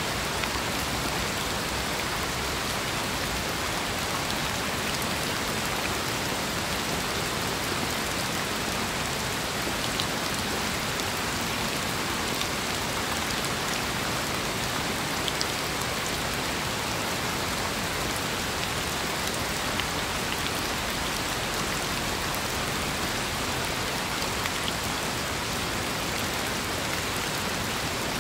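Steady rain falling: an even, unbroken hiss, with a few sharper single drop ticks now and then.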